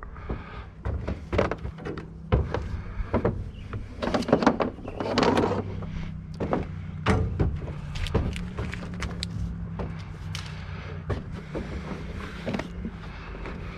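Scrap being handled at a loaded vehicle: a run of irregular knocks, clanks and rattles, busiest a few seconds in, over a steady low hum.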